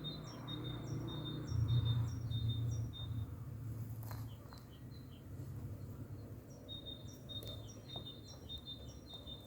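A songbird singing a run of repeated short high notes, about two a second, then after a pause of a few seconds a second run. A steady low rumble lies underneath, stronger in the first half.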